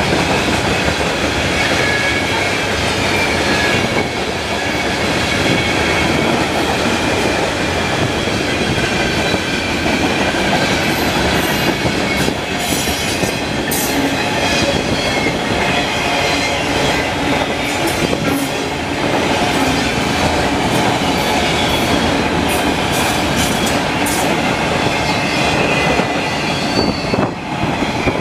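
Freight train tank cars rolling past on steel wheels: a steady, loud rumble with thin high squealing tones and scattered clicks from the wheels and rail joints. Strong wind buffets the microphone.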